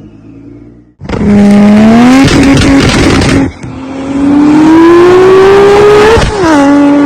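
Modified performance car with a loud aftermarket exhaust accelerating hard: the engine note bursts in about a second in and climbs, then holds. It eases off briefly, climbs steadily again, and near the end drops sharply in pitch, as at a gear change.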